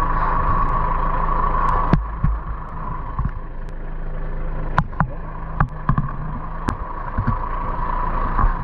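A 4x4 van's engine running steadily while driving, with several sharp knocks and rattles scattered through, the loudest about two seconds in.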